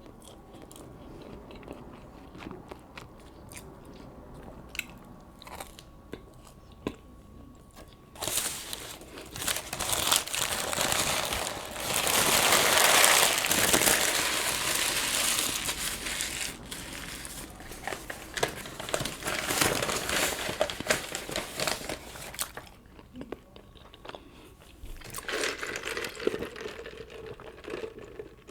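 Close-miked eating: soft mouth clicks and bites at first, then, from about eight seconds in, a long loud stretch of crinkling and crunching, loudest around the middle. A shorter burst of the same comes near the end.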